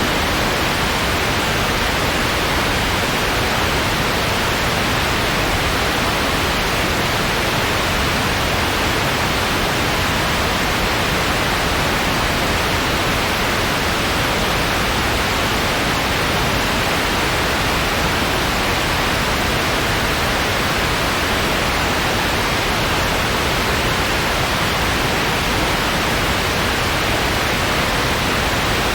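Steady white noise: an even, unbroken hiss that never changes in level, without any crackles or tones.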